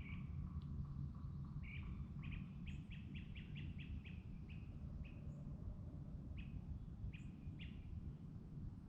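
A small songbird chirping: a rapid run of about eight short chirps around two seconds in, then single chirps spaced out, over a steady low rumble.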